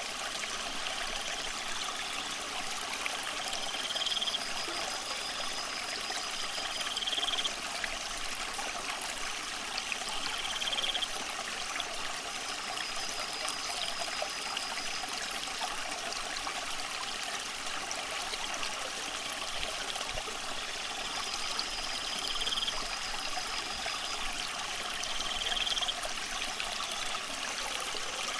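Aquarium water trickling and splashing steadily, as from a filter return into the tank. A short high chirp repeats every three to four seconds.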